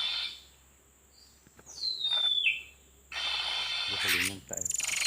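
Oriental magpie-robin (kacer) calling: a clear whistle falling in pitch about two seconds in, then a burst of harsh chattering in the second half.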